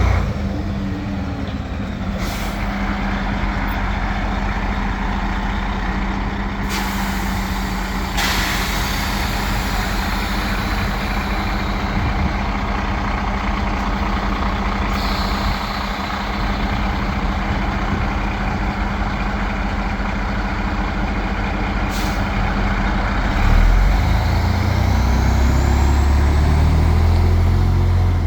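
Diesel engine of a 2007 Sterling L9500 boom truck running steadily at idle, with sharp hisses of air from its air system about 2 seconds in, a longer one around 7 seconds, and another around 22 seconds. The engine speeds up with a rising pitch about 24 seconds in.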